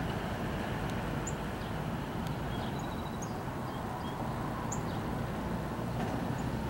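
A steady low rumble from a distant approaching passenger train, with short high bird chirps scattered over it.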